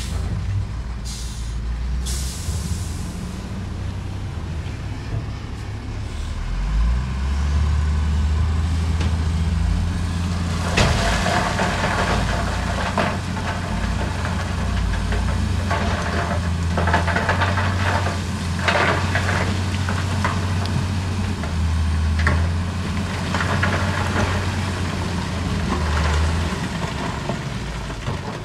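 Heavy diesel machinery running steadily, its engine labouring louder from about seven seconds in, with a short hiss near the start. From about eleven seconds on, irregular clattering and scraping of rock mixes in with the engine.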